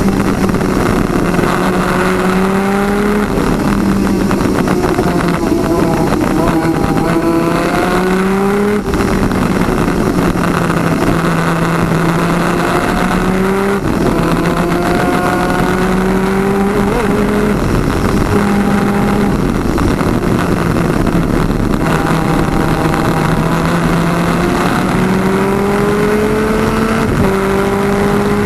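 Twin-cylinder 250cc two-stroke superkart engine at full throttle, heard onboard over wind noise. Its pitch climbs steadily and drops suddenly about six times as the driver shifts up through the gears.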